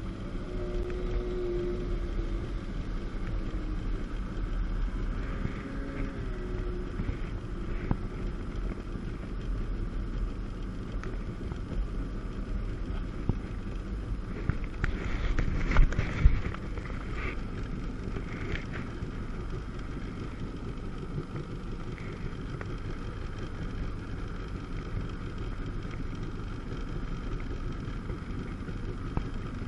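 Two-stroke jet ski engine running steadily on the water, a low rumble with its pitch shifting now and then. About fifteen seconds in there is a brief louder rush of noise.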